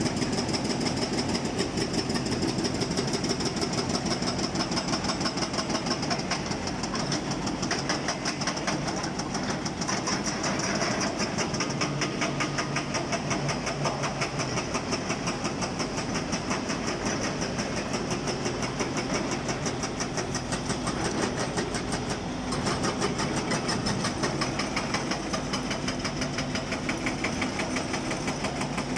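Excavator-mounted hydraulic breaker chipping rock with a rapid, steady hammering, over the excavator's diesel engine running.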